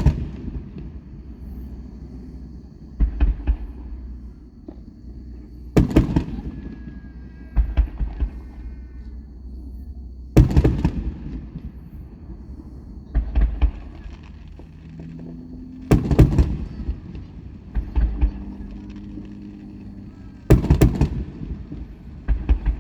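Aerial fireworks shells bursting every two to three seconds, each a sharp bang, some doubled or trailing into crackle.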